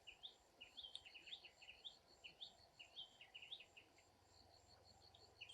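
Faint chirping of small birds, many short repeated chirps, with a rapid, evenly pulsed high trill joining about four seconds in.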